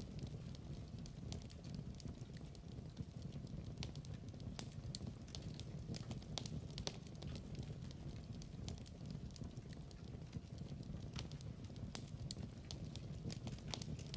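Log fire burning in a fireplace: a steady low rumble of flames with frequent sharp, irregular crackles and pops.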